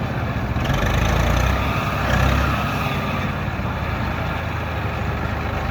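Tractor engine running steadily, growing louder for a couple of seconds about a second in, then settling back to an even drone.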